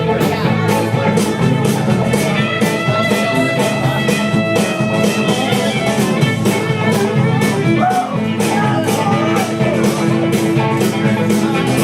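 Country-rock band playing an instrumental passage: guitar over a fast, steady drum beat.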